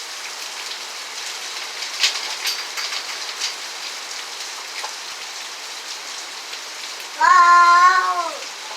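Steady rain hiss, with a few sharp drop-like ticks a couple of seconds in. Near the end, a cat gives one long drawn-out meow lasting about a second, its pitch dipping as it ends.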